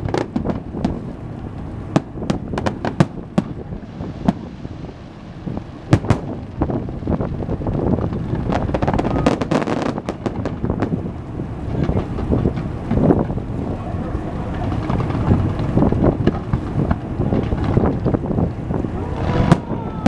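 Fireworks going off in scattered sharp pops and cracks, over a steady low rumble of wind buffeting the microphone.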